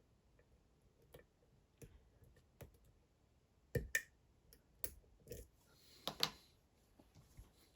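Lock pick and tension wrench working the pin stacks of a Dom IX Twinstar lock: irregular small metallic clicks and taps, a dozen or so, the loudest a quick pair about four seconds in and another about six seconds in.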